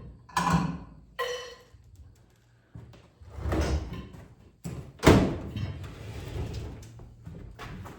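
Sheet-metal microwave case being handled and knocked while it is worked loose: a string of thuds and clanks, some with a short metallic ring, the loudest about five seconds in.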